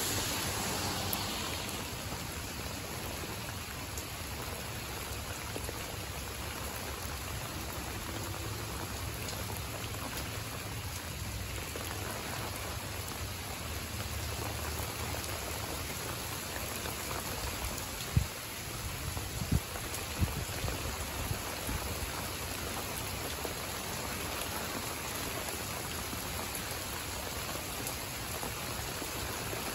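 Steady rain falling on garden leaves and mulch, an even patter throughout. A few dull thumps stand out about two-thirds of the way through.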